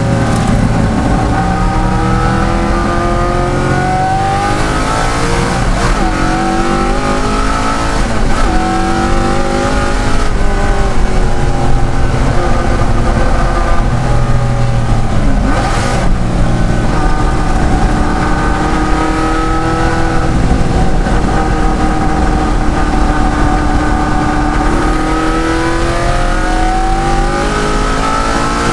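De Tomaso Pantera's Ford V8 racing under load. Its pitch climbs through each gear, then drops sharply on the shifts and under braking, several times over.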